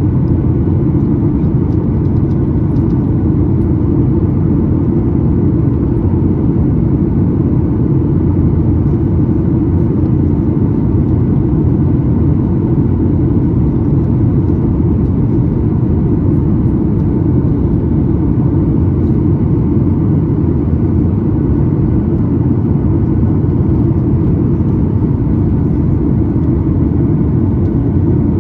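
Steady low cabin rumble inside a Boeing 737-9 MAX in flight, from airflow and its CFM LEAP-1B engines.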